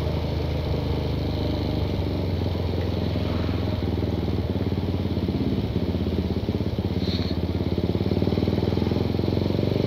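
Suzuki Satria FU 150's single-cylinder four-stroke engine running steadily at low revs through a gutted ('bobokan') stock CKD muffler, a fast, even train of exhaust pulses.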